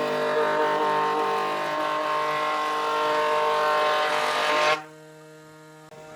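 A loud, steady machine motor running with a whine, cutting off abruptly near the end, leaving a fainter steady hum.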